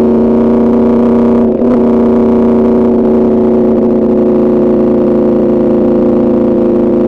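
Yamaha R1's crossplane inline-four engine running through an Arrow Pro Racing exhaust, holding a steady engine speed under way. It dips briefly about a second and a half in, then carries on at the same steady pitch.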